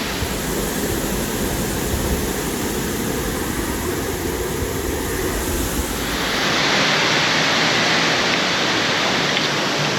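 Waterfall water rushing and hissing steadily. About six seconds in, the low rumble drops away and the hiss turns brighter and slightly louder.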